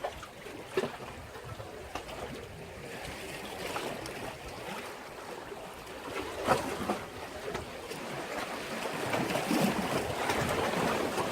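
Sea waves washing against a harbour breakwater: a steady rush of surf, broken by a few brief sharp hits, that swells louder near the end.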